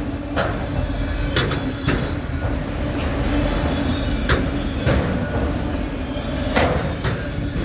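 Train rolling past: a steady low rumble and hum, broken by sharp wheel clacks every second or so.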